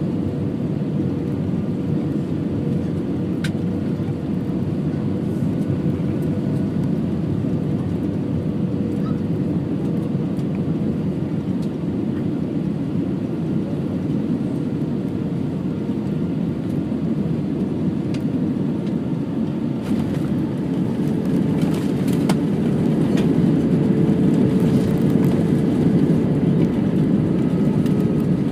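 Steady cabin noise of an Airbus A320-232 with IAE V2500 engines: engine and airflow rumble with a faint steady hum. It grows a little louder near the end, with a few faint clicks.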